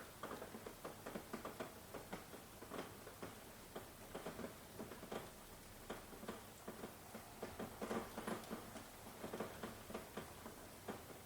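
Rain falling, heard as a faint steady hiss with close drops pattering irregularly, several a second.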